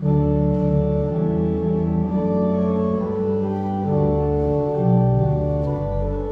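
Organ playing the introduction to a hymn: full sustained chords with a deep bass line, starting suddenly.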